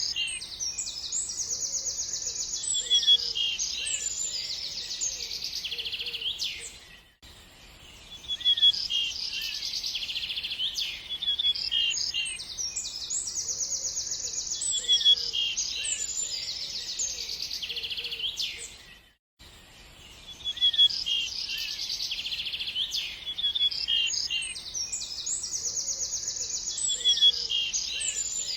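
Birds chirping and twittering in a dense, busy chorus of high trills and calls. The same stretch repeats about every twelve seconds, dropping away briefly twice where the loop joins.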